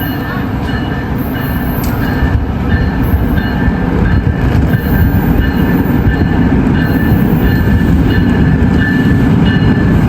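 NJ Transit commuter train passing through the station, its wheels rumbling on the rails and growing steadily louder, with short high squeals from the wheels recurring over the rumble.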